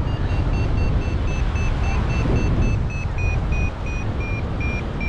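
Paraglider variometer beeping in quick, even pulses, about three a second: the climb tone signalling lift. Its pitch dips a little, then rises again near the end. Heavy wind noise rushes on the microphone throughout.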